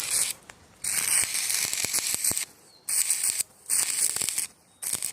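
Electric arc welding crackling and hissing in four short bursts with brief pauses between, like tack or stitch welds on steel.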